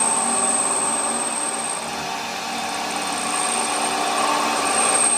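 A power tool running steadily with a high whine, easing slightly about two seconds in.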